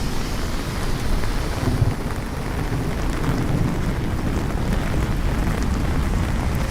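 Steady rain with low rumbling thunder, a light thunderstorm over city streets.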